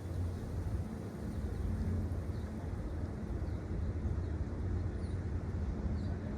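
Steady low rumble of idling diesel engines, an even drone with a constant low hum.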